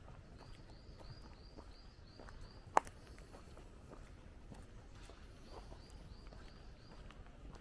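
Footsteps walking along a path, with a bird repeating a short high note about four times a second in two runs, and a single sharp click just under three seconds in.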